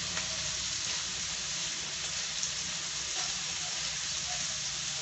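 Chicken pieces frying in hot oil in a nonstick frying pan, a steady sizzle as the meat browns and gives up its fat, with a few faint clicks as tongs turn the pieces.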